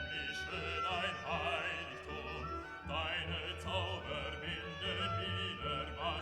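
Orchestral classical music with an operatic voice singing held notes that waver in pitch.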